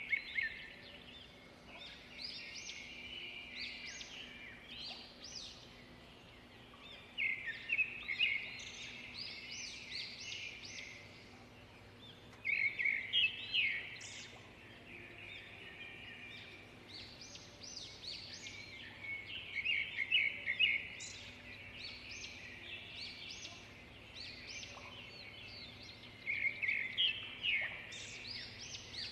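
Bird song: a loud burst of rapid, high chirping notes about every six to seven seconds, with softer twittering in between.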